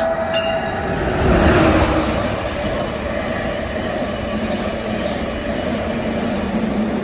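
Train running on the rails with a steady rumble, after a short horn blast just at the start. The rumble swells about a second in and then settles.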